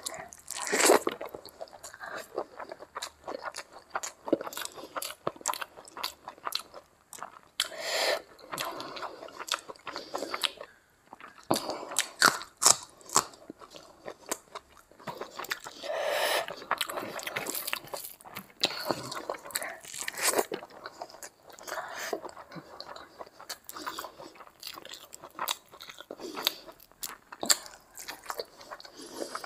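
Close-miked ASMR eating: a person chewing big mouthfuls of rice and curry eaten by hand, with crunching bites and wet mouth clicks coming irregularly and without pause.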